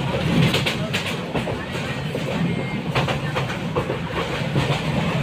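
A train running along the track, heard from inside the carriage: a steady rumble of wheels on rails with occasional clacks and rattles.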